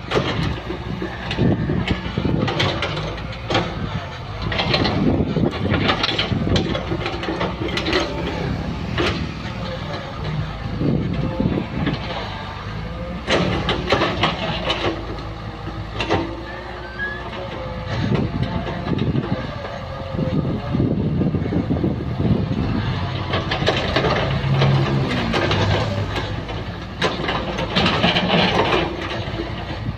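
Hydraulic excavator at work: its diesel engine running steadily under load, with frequent knocks and clanks throughout.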